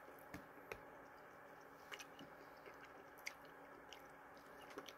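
Faint chewing of a mouthful of food: a few soft, scattered mouth clicks and smacks over quiet room hiss.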